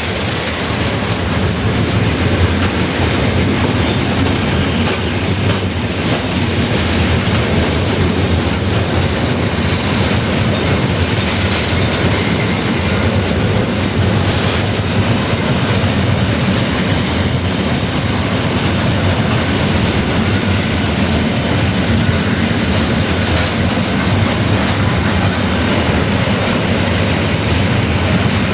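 Freight train of tank wagons rolling past close by: a steady loud rumble of steel wheels on the rails, with the clickety-clack of wheelsets over rail joints.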